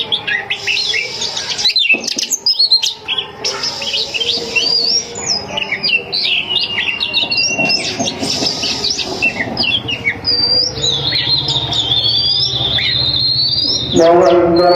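Oriental magpie-robin (kacer) singing a fast, varied string of short whistled notes that glide up and down, with a few longer trilled notes held steady. A voice comes in near the end.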